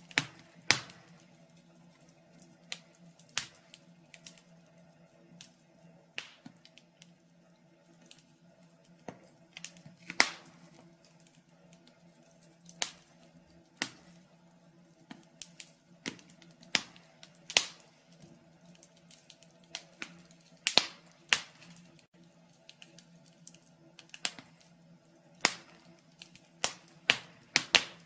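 Wood fire burning in a fireplace, crackling with irregular sharp pops, a couple every second or so, some much louder than others, over a faint steady low hum.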